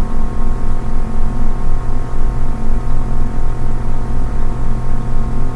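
A steady drone of several held tones over a low rumble that pulses several times a second.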